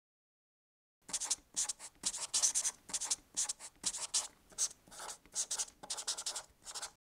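Marker writing on a whiteboard: a quick run of short, hissy pen strokes that starts about a second in and stops just before the end.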